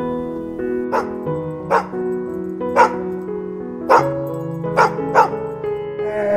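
Background music with sustained tones, over which an animal gives six short, sharp calls at uneven intervals.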